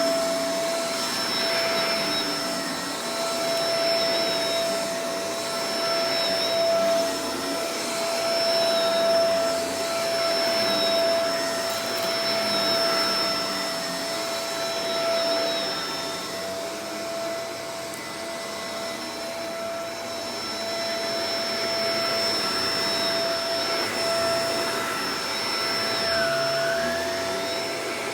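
Shark Professional Powered Lift-Away DLX (NV586) upright vacuum cleaner running steadily: a constant motor whine over the rush of air, swelling and easing a little as it moves.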